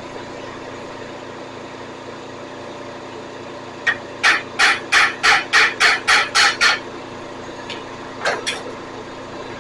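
A quick run of about nine sharp hammer blows on metal, roughly three a second, with a single strike just before and two more a little after, as the small flywheel of a STIHL BG 86 blower is struck to try to pop it loose. A steady shop hum runs underneath.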